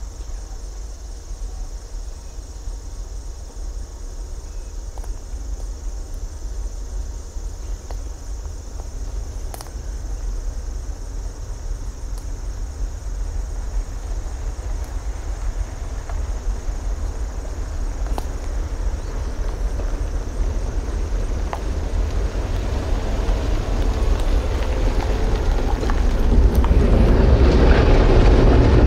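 Cumberland Mine Railroad train approaching: a low rumble that grows steadily louder and fuller, loudest over the last few seconds.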